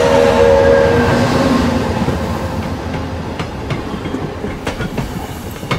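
A train rolling along the rails, a steady rush with scattered clicks of the wheels over the track, slowly getting quieter. Over its start, the last held notes of a short musical jingle die away within the first couple of seconds.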